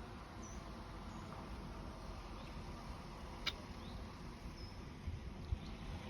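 Faint outdoor ambience: a low, uneven rumbling throughout, with a few short high chirps and one sharp click about halfway through.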